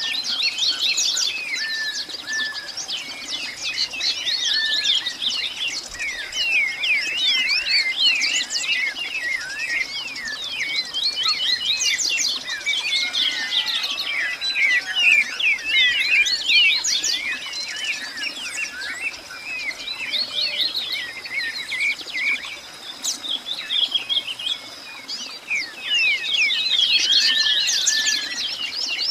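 A dense chorus of many small birds chirping, with quick overlapping calls throughout and a faint steady high whine underneath. The chorus thins out for a few seconds past the two-thirds mark, then builds again near the end.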